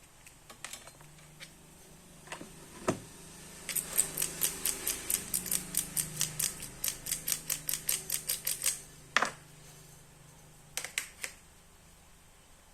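A fast, even run of small clicks from handling the phone, about five a second for some five seconds, with a few single clicks and a sharper knock before and after it.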